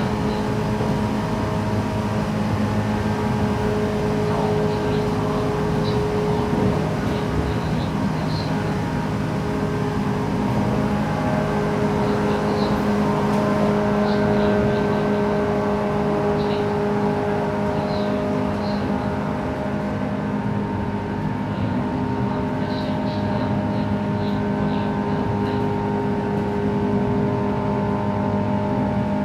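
JR West 117-series electric train running, heard from inside the carriage: a steady hum from the motors and gears over continuous wheel-and-rail noise, with its pitch shifting slightly now and then.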